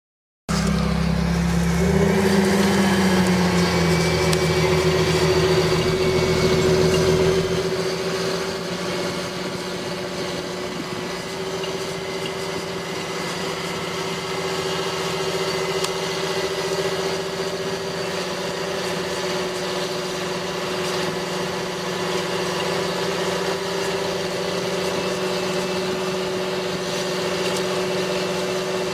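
John Deere 8530 tractor's six-cylinder diesel engine running steadily while pulling a stubble cultivator. It cuts in suddenly, dips and recovers in pitch briefly, drops in loudness about seven seconds in, then holds an even drone.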